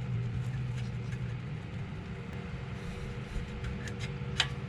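A steady low hum with a few light clicks and taps while the rear axle's ABS sensor is worked loose and wiggled out of its bore. There is a sharper click near the end.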